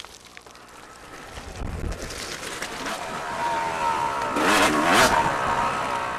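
Off-road vehicle engine revving as it approaches and passes close by, getting louder to a peak about five seconds in, its pitch bending as it goes past, then fading away.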